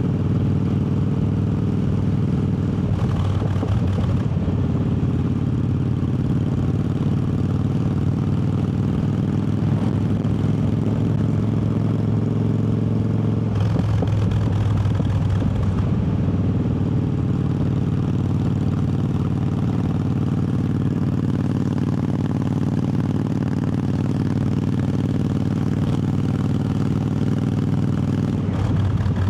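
Triumph Bobber's 1200 cc parallel-twin engine running steadily under way, with brief changes in the engine note about three seconds in and again around fourteen seconds in.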